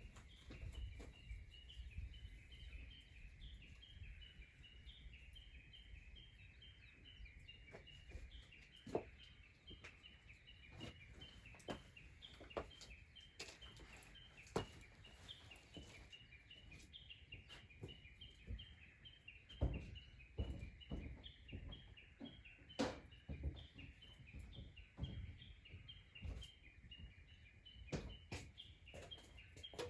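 A steady high-pitched chorus of rapid, repeated chirping by outdoor animals, with scattered sharp clicks and pops throughout.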